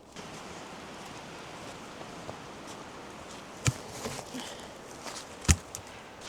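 A steady rushing noise with two sharp knocks about two seconds apart, the second the louder, and a few soft taps between them.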